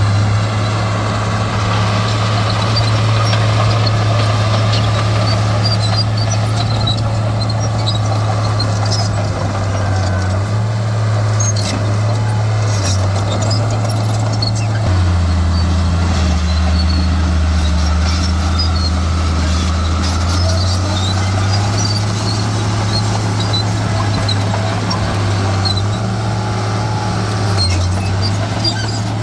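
Diesel engine of heavy earthmoving machinery running steadily under a low drone that drops in pitch about halfway through and rises back several seconds later, with scattered faint high squeaks.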